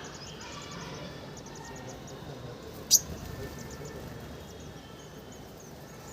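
Sunbirds calling in rapid runs of thin, very high chirps, several a second, starting and stopping in short bursts. A single sharp click about three seconds in is the loudest sound.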